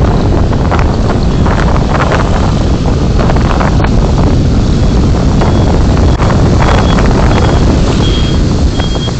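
Steady, loud road and wind rumble from a moving car, picked up by a dashcam microphone. From about halfway in, a short high beep repeats about twice a second, like a vehicle's reversing alarm.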